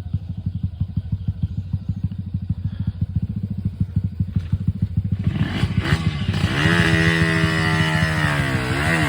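Dirt bike engine idling with a steady putter, then revved up about five seconds in and held at high revs. The revs dip briefly near the end before climbing again.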